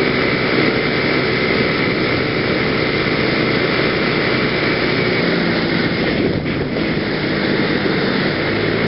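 PGO BuBu 125cc scooter engine running steadily while riding, heard from a helmet camera; its note eases off a little about six seconds in.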